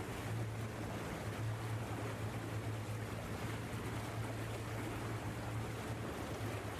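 Boat engine running with a steady low drone under a constant hiss of wind and water.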